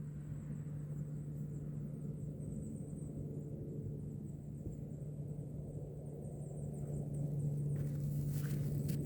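A steady low hum, with faint rustling and light footsteps starting near the end.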